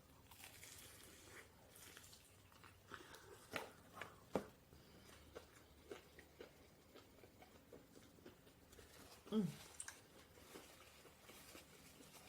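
A person chewing food close to the microphone: soft, scattered clicking mouth sounds, with a short voiced sound about nine seconds in.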